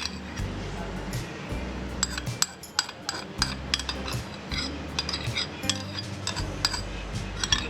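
Metal utensils clinking repeatedly against a dish, in many short, irregular knocks, over background music.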